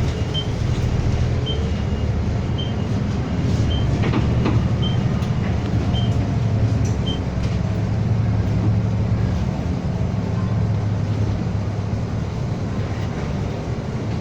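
City bus running, heard from inside the cabin: a steady low engine and road drone. A short high beep repeats about every two-thirds of a second and stops about seven seconds in.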